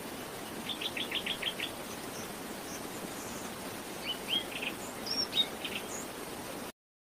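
Faint bird chirps over a steady background hiss: a quick run of about six near the start and a few scattered chirps later, before the sound cuts to silence near the end.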